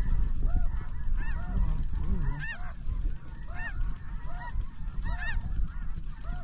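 Snow geese calling: many short, high-pitched honks repeating and overlapping, over a low wind rumble.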